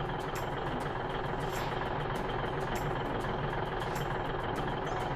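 Heavy truck loaded with timber, its diesel engine running steadily.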